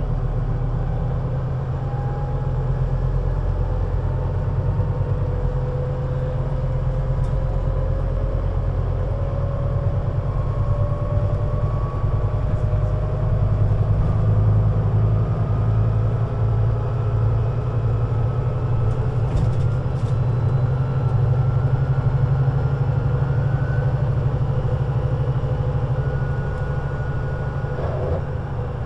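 Scania Citywide CN320UA city bus under way: its engine drones steadily low, and a thin whine above it climbs slowly in pitch as the bus gathers speed.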